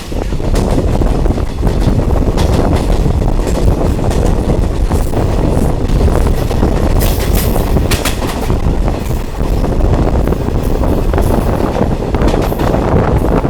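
Diesel multiple unit train running along the track: a steady, loud rumble with scattered sharp clatters of the wheels on the rails.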